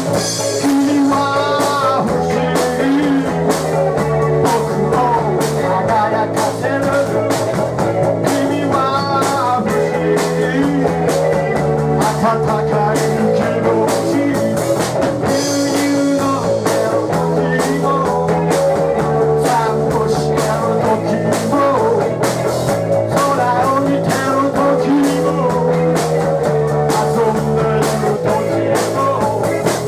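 Rock band playing live: electric guitar over bass and a drum kit keeping a steady beat, the bass line repeating a pattern every couple of seconds.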